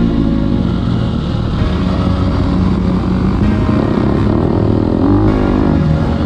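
Motocross bike engine running hard, its pitch rising and falling as the throttle opens and closes.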